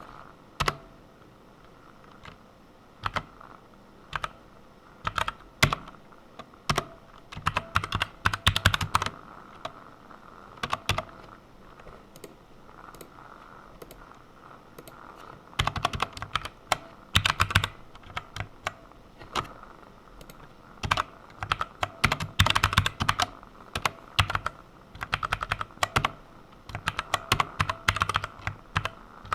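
Typing on a computer keyboard while writing code: a few scattered single keystrokes, then quick runs of key clicks separated by short pauses.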